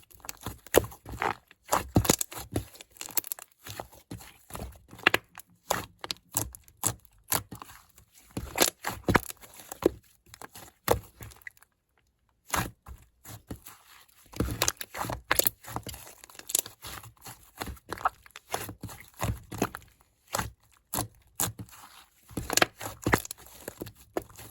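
Hands crushing and breaking apart a clay gingerbread-man figure: irregular crackling, crunching and snapping, with a brief pause about halfway through.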